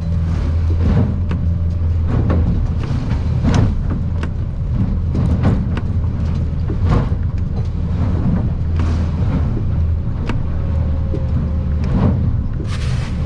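Boat's outboard motor running with a steady low drone inside the cabin, broken by irregular knocks and splashes every second or so as the aluminium hull slams into swells and spray hits the windshield. A louder hiss of spray and wind comes near the end.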